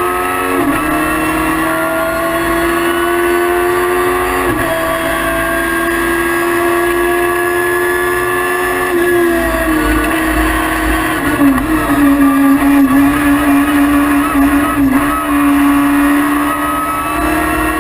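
VW Polo Mk1 hillclimb car's high-revving 1150cc engine with a Honda CBR motorcycle cylinder head, heard from inside the car, running hard at high rpm with several brief dips in pitch at gear changes. It is louder and more uneven for a few seconds past the middle.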